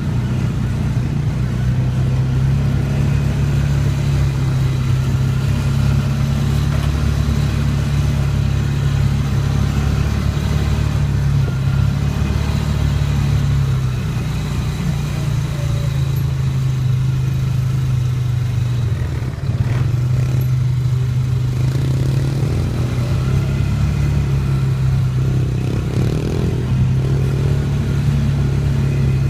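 Yamaha dirt bike engine running at a fairly steady pitch, shifting up and down slightly and easing off briefly a couple of times.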